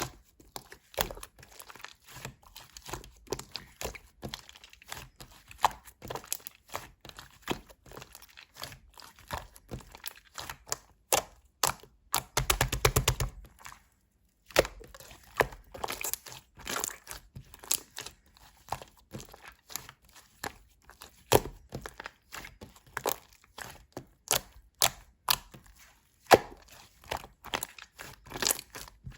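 Hands squeezing and poking a clay-mixed slime, making irregular sticky clicks and pops; about twelve seconds in, a quick run of rapid pops.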